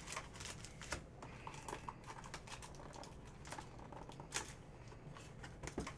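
Scattered light clicks, taps and soft rustling from hands working at a tabletop, with a couple of sharper ticks near the end.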